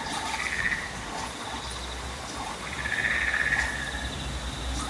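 Frogs calling in rattling bouts over a steady high insect buzz, with a low rumble underneath.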